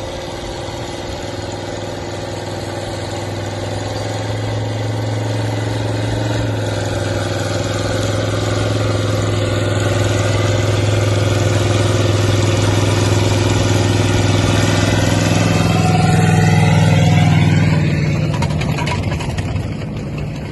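Linn tractor's engine running steadily under way, growing louder as it comes closer and loudest about sixteen to seventeen seconds in, then its pitch shifts and it fades near the end.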